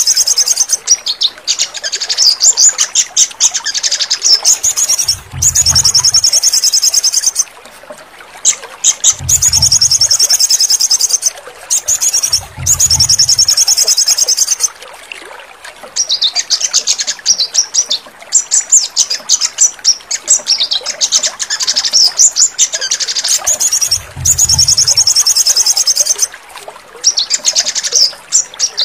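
Sogon bird song: rapid high trilling in stretches of about two seconds, broken by short pauses. A low short note sounds four times beneath it.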